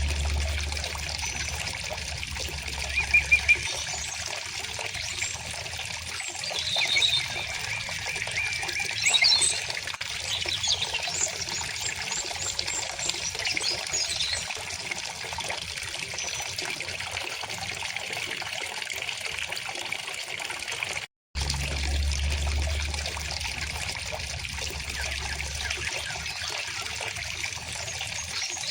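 A river or stream babbling steadily, with songbirds chirping over it, the chirps busiest in the first ten seconds or so. The sound cuts out completely for a split second about two-thirds of the way through, then carries on.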